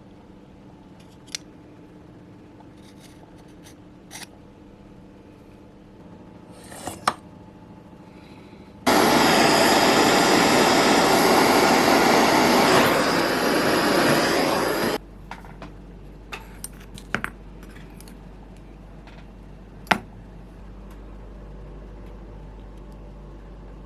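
Small metal parts clicking and tapping as they are handled, then a power tool running loud and steady for about six seconds, starting and stopping abruptly. A few more clicks and a sharp tap follow.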